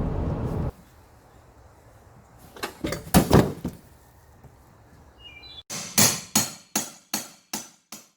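Driving noise cuts off, then a few scattered knocks, then a run of about six or seven sharp knocks, roughly three a second, each dying away quickly.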